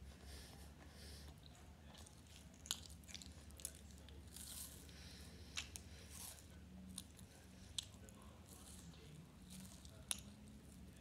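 Biting and chewing a chocolate bar, with soft mouth noises and a few sharp crunching snaps as pieces break off.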